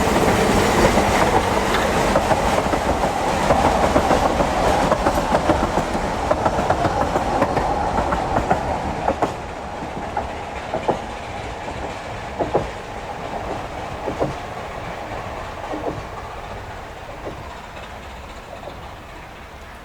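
Narrow-gauge steam-hauled train's carriages rolling by, the wheels clicking over rail joints every second or two as the rumble steadily fades away.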